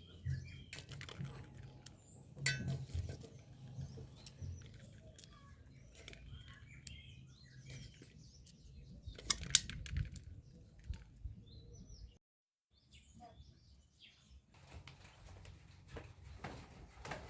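Birds chirping in the background, with scattered sharp clicks and knocks close by; the loudest click comes about nine or ten seconds in. The sound drops out completely for a moment about twelve seconds in.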